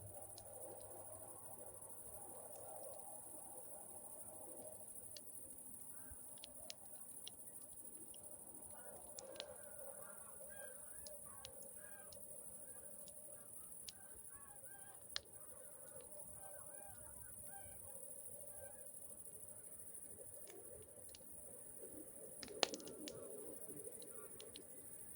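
Crickets trilling steadily, with scattered sharp pops from a crackling campfire, one louder pop near the end. A run of faint, wavering calls comes through in the middle.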